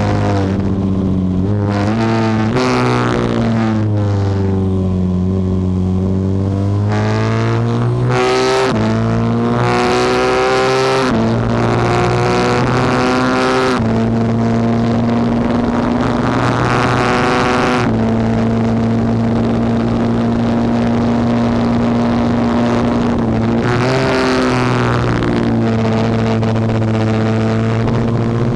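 Norton Manx single-cylinder racing motorcycle engine at race speed, heard from an onboard camera on the bike. In the first few seconds the engine note sinks and climbs again. It then steps down in pitch twice, holds steady for a long stretch at high speed, and dips briefly near the end.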